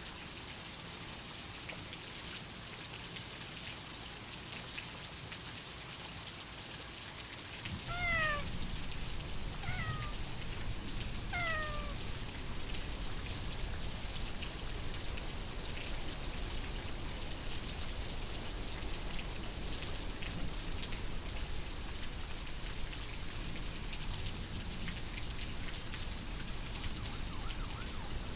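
Steady rain falling, growing heavier about eight seconds in. A cat meows three times in quick succession around then, each meow short and falling in pitch.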